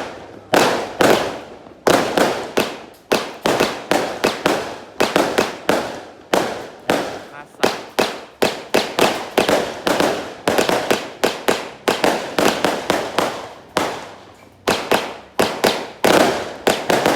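Fireworks going off in rapid, irregular succession: sharp bangs about two to three a second, each trailing off in an echo.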